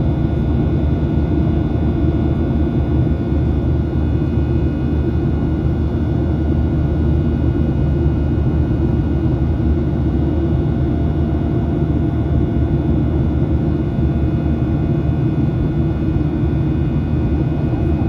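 Steady in-flight cabin noise of a Boeing 737-800, heard from a forward window seat. It is a deep, even drone of the CFM56-7B engines and airflow, with several faint steady whining tones above it.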